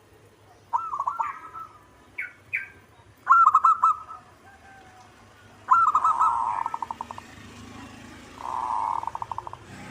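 Zebra dove (perkutut) singing: three phrases of short clipped coos, the last running into a fast rolling trill, with another trill near the end.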